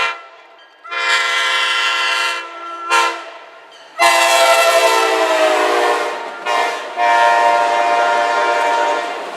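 Canadian Pacific diesel locomotive's air horn sounding a series of blasts: long, short, long, short, long. The chord's pitch drops during the middle blast as the locomotive passes.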